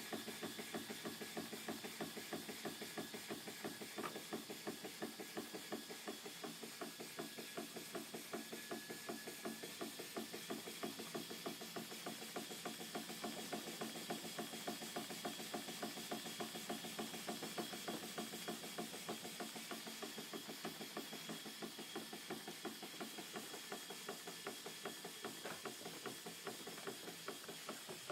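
Antique single-cylinder toy steam engine, believed to be a Dr. Oskar Schneider, running on compressed air: a steady, even exhaust beat through a small silencer. It has a faint hiss of air leaking past the D valve, the blow-by the owner still gets after centring the valve.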